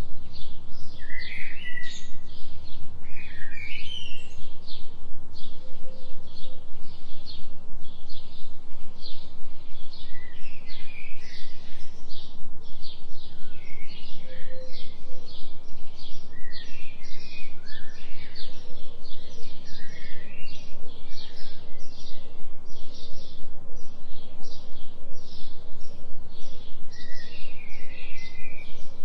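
Recorded forest ambience of birds chirping and calling, over an even pulsing in the high range at about three pulses a second and a steady low hum from the binaural delta tone track.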